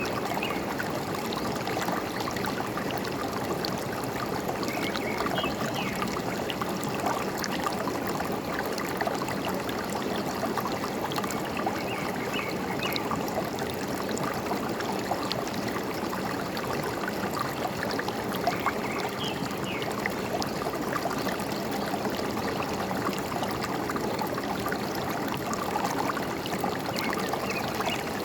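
Forest stream running and gurgling steadily, with a few faint, short bird chirps now and then above the water.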